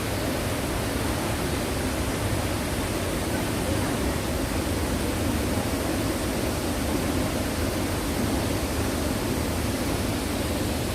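Steady rush of falling water, an even, unbroken roar.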